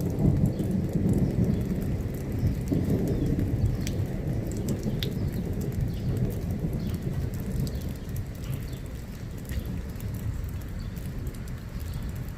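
Low rumble of thunder, strongest in the first few seconds and slowly dying away, over steady rain with scattered sharp drip ticks.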